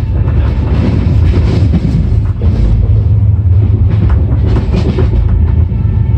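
Rajdhani Express running at speed, heard from inside a closed coach: a steady low rumble with irregular clacks of the wheels over rail joints.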